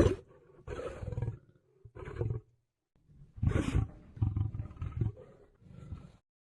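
A lion roaring in a series of about seven short calls, a few of them a little longer than the rest. The calls stop about six seconds in.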